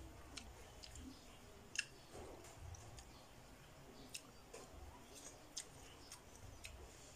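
Quiet eating sounds from a mouth chewing apple slices: faint, irregularly spaced sharp clicks and smacks, about a dozen over several seconds.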